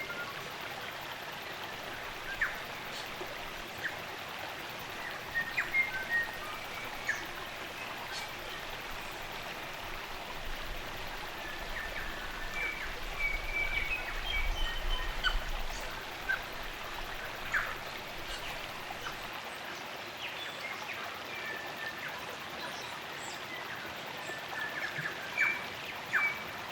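Steady rush of a spring-fed stream, with New Zealand native forest birds chirping in short, scattered calls over it.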